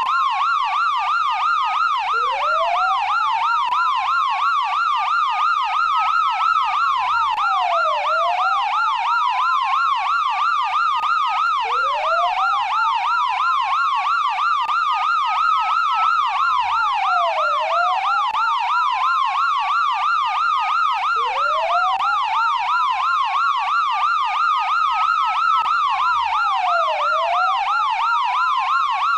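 Police siren sounding continuously: a fast yelp sweeping up and down several times a second, layered over a slower wail that climbs for several seconds, drops and climbs again.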